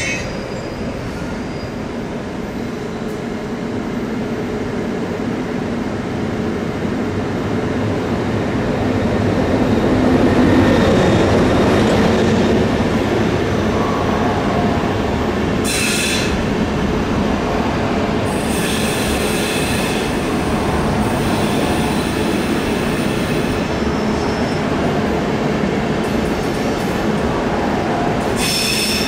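Train running on the station tracks: a steady rumble that swells about ten seconds in, with high-pitched wheel squeals breaking in briefly past the middle, for several seconds after that, and again near the end.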